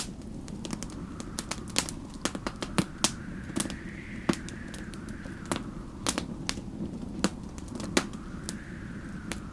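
Wood fire crackling, with irregular sharp pops and snaps over a steady low rumble. Storm wind howls faintly behind it, rising and falling in gusts, strongest about four seconds in and again near the end.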